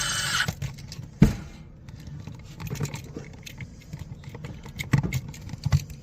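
Scattered clicks, knocks and clatter of hand-tool work, with a short hiss at the start and a sharp knock just over a second in.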